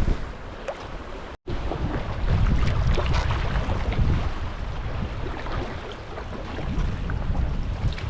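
Sea water sloshing and splashing around a sea kayak, with wind gusting on the microphone in a low rumble. The sound cuts out for an instant about a second and a half in.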